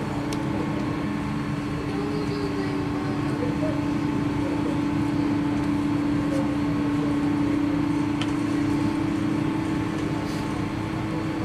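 Steady airliner cabin hum inside a Boeing 777-200 at the gate, with one strong low tone that swells slightly midway.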